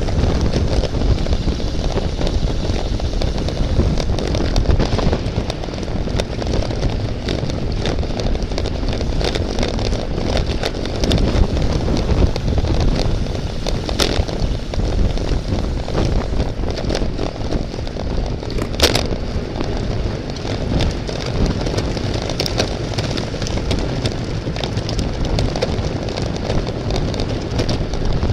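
Wind buffeting the microphone, with a steady low rumble of road and tyre noise from a bicycle ridden at race speed. A couple of sharp clicks stand out about halfway through.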